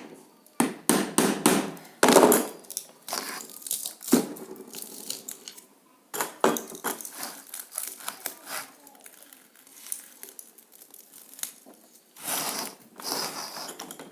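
Hand tools knocking and scraping on a microwave oven transformer while it is dismantled, irregular clusters of sharp hits with short pauses between.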